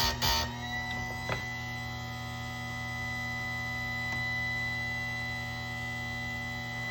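Electric chainsaw sharpener's motor running steadily with a low hum and a thin high whine.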